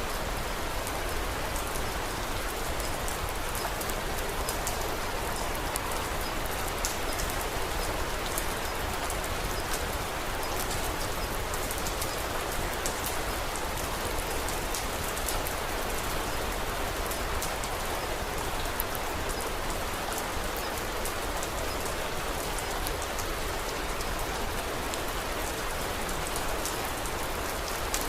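Steady rain falling, a continuous even hiss with a dense patter of small, sharp drop ticks.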